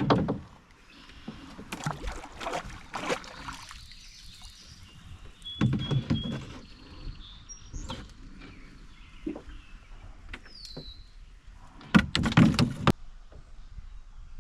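Irregular knocks and thumps inside an aluminum-free hull canoe, gear and paddle bumping the hull, loudest right at the start and again about twelve seconds in. Birds chirp faintly between the knocks.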